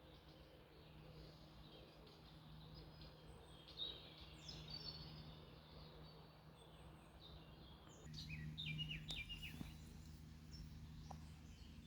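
Birds chirping faintly over a low, steady background noise, with a burst of quick high chirps about four seconds in and another flurry a little after the middle.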